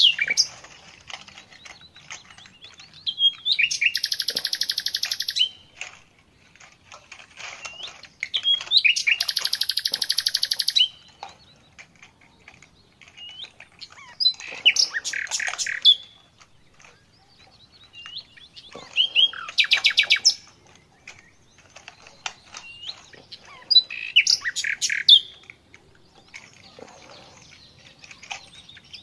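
A small bird chirping and singing, with bursts of fast high trills about every five seconds and single short rising chirps between them.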